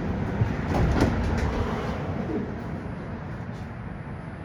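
Tram running on its rails, heard from inside the car: a low rumble with a few sharp clicks in the first second or so, getting quieter toward the end.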